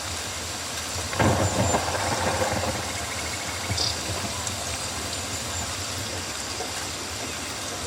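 Rainforest ambience: a steady rain hiss with a low rumble underneath. About a second in comes a louder burst of rustling and pattering lasting about a second and a half, and near the middle a short high chirp.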